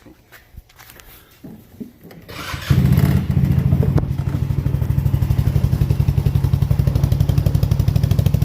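Polaris Ace 150 engine, fitted with a slip-on aftermarket muffler with its resonator in, catching about two and a half seconds in and then idling steadily with a fast, even exhaust pulse. Before it catches there are only a few faint knocks.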